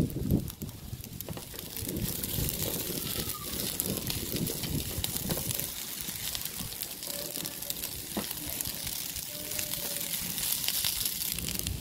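Fried rice sizzling in a nonstick pan as a plastic spatula stirs and scrapes it: a steady hiss with frequent small clicks and scrapes.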